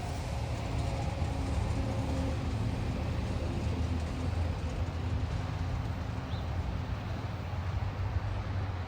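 SEPTA Regional Rail electric train running on the track just after passing, a steady low rumble with a faint motor whine that fades out in the first few seconds.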